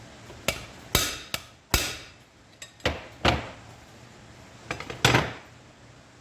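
Hammer blows on metal clutch parts: about nine sharp strikes in uneven groups, each with a brief ring, during a clutch bearing rebuild.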